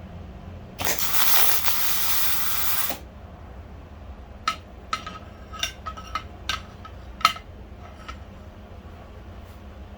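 A steady hiss lasting about two seconds that cuts off sharply, then a run of about eight light, sharp clicks, each with a short ring, over the next few seconds.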